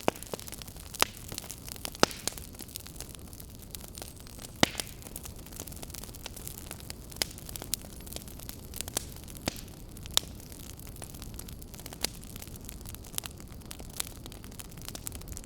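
Wood fire burning in a fireplace: a steady low rushing of flame with frequent sharp crackles and pops at uneven intervals, a few of them much louder than the rest.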